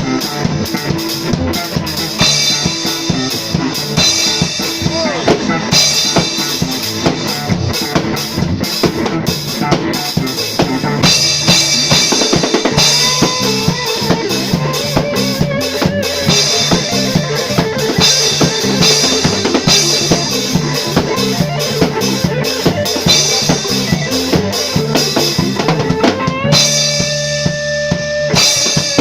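Drum kit played in a band rehearsal, with steady kick, snare and cymbal hits over a stepping bass line. A held pitched note from another instrument or voice sounds briefly near the end.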